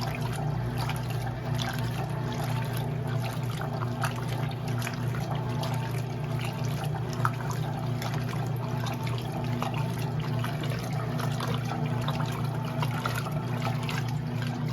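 Electrolux LE06DBD top-load washing machine running mid-cycle: a steady motor hum with water trickling and splashing inside the tub.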